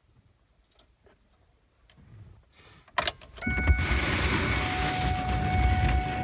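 Cold start of a 1999 Ford 7.3 Powerstroke turbo-diesel V8: a few small clicks of the keys, then a brief crank, and the engine fires about three seconds in and settles into a loud, steady idle with a steady high tone over it.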